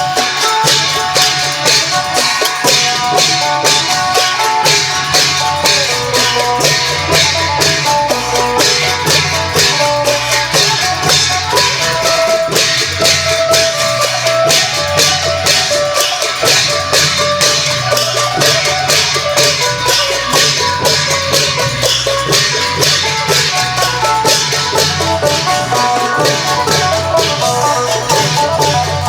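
Isan long-drum procession music: a phin (Thai plucked lute) plays the melody over klong yao long drums, with quick, even percussion strokes throughout.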